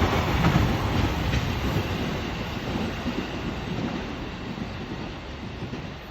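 Koki container freight wagons rolling on the rails, a steady rumble with wheel clatter that fades away steadily as the train recedes.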